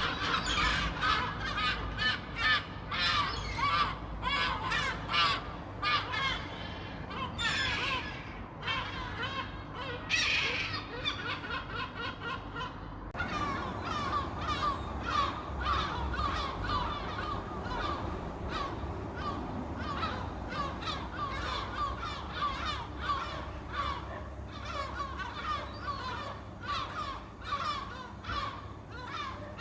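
A flock of gulls calling, many short cries overlapping in a dense chorus.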